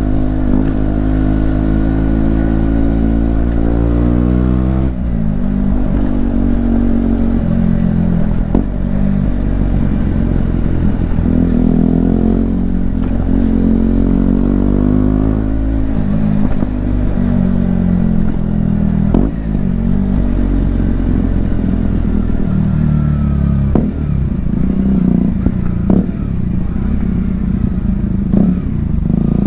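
KTM Duke 125's single-cylinder four-stroke engine under way, its pitch rising and falling as it revs through the gears, with sharp drops at the shifts and a few short clicks. It sounds muffled, picked up by a microphone inside a bag.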